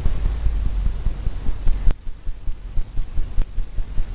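A wide paint brush scrubbing down a canvas: a run of quick, low, dull thumps and rubbing strokes, with a sharp click about halfway through.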